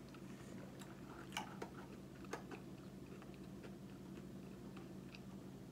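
Close-miked chewing: soft wet mouth clicks and smacks of a person eating, a few sharper ones in the first couple of seconds, over a low steady hum.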